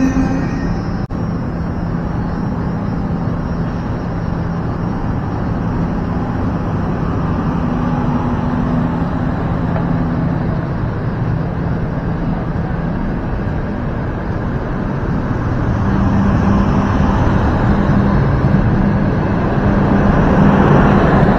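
Passenger train coaches rolling slowly along the platform: a steady rumble of wheels on rail with a faint low hum, growing louder near the end.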